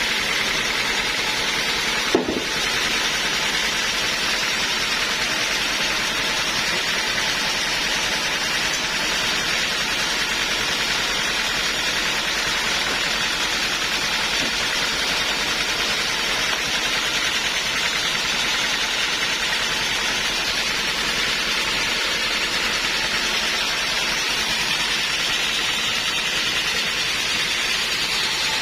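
Sawmill machinery running steadily, a constant hiss-like mechanical noise, with one sharp click about two seconds in.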